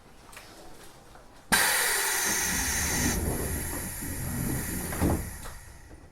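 Sudden loud hiss of compressed air from a Tokyo Metro 6000 series train's pneumatic equipment as the doors close, starting about a second and a half in and fading over about four seconds, with a single thud near the end.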